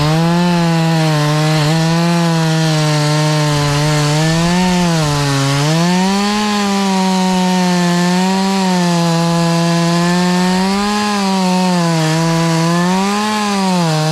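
Two-stroke chainsaw running at high revs, cutting through a log. Its engine note sags and recovers again and again as the chain bites into the wood.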